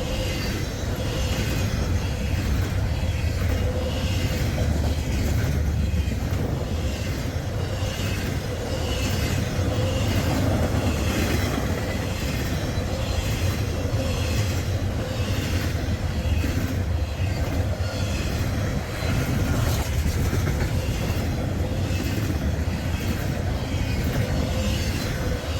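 Freight train cars rolling past at speed: a steady heavy rumble with a regular clickety-clack of wheels over the rail joints.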